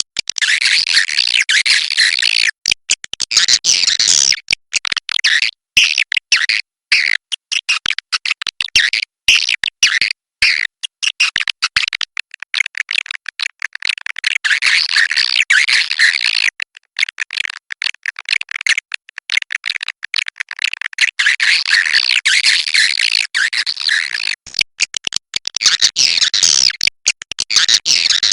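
Many swiftlets chattering and twittering densely in high, rapid calls, broken by many abrupt short drop-outs. This is a swiftlet 'inap' (roosting) call recording of the kind played in swiftlet houses to lure the birds in and make them settle.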